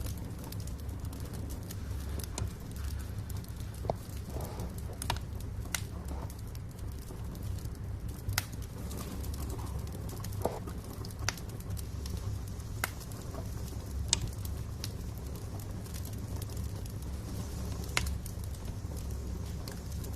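Wood fire crackling in a fireplace: sharp pops every second or two over a steady low rumble of the burning logs, with a louder pop about fourteen seconds in and another near the end.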